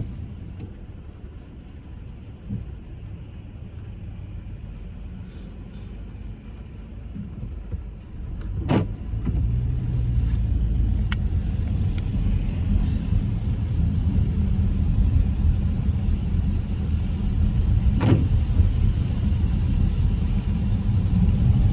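Car road noise heard from inside the cabin: engine and tyre rumble, quieter at first and getting louder from about eight seconds in as the car gets moving, with two short knocks, one about nine seconds in and one near the end.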